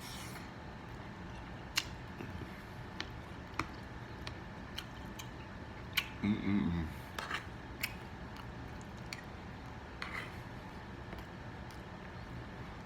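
Close-up eating sounds: chewing with scattered sharp clicks and smacks, and a short hummed "mm" about six seconds in.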